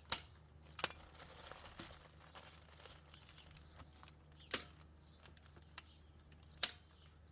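Staple gun firing staples through a plastic topsoil bag into a wooden post: four sharp snaps spread irregularly, with the plastic bag crinkling in between.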